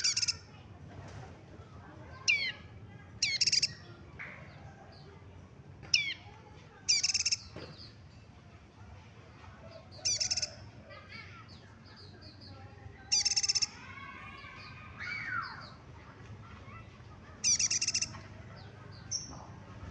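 Prenjak lumut songbird calling: short, sharp, high calls repeated every few seconds, some a quick downward sweep followed by a buzzy note.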